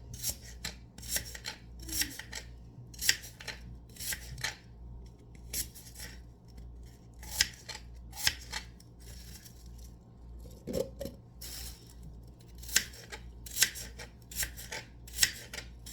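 Kitchen knife cutting up a large apple on a cutting board: a series of crisp, irregular cuts and taps, one or two a second, with a few short pauses.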